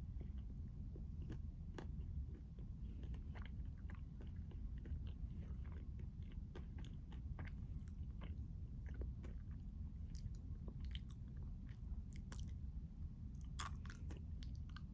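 Close-miked chewing and biting of a chocolate crunch ice cream bar, with small crisp crackles scattered throughout and one sharper, louder click near the end.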